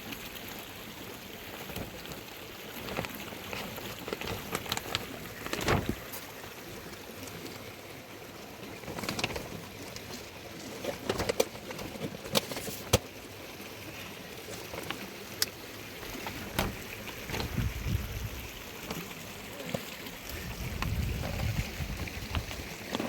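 Outdoor background noise broken by scattered knocks and clicks, with a couple of low rumbles near the end.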